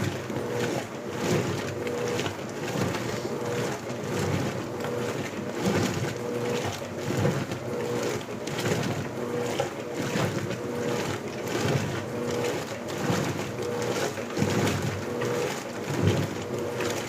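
Electrolux LBU15 top-load washing machine agitating on turbo agitation, water sloshing in the tub. The motor hum cuts in and out about once a second as the agitator swings back and forth.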